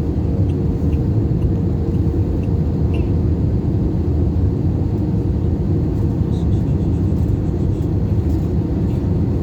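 Steady low rumble of airliner cabin noise, the jet engines and airflow heard from inside the cabin while the plane is on approach, with a faint steady hum over it.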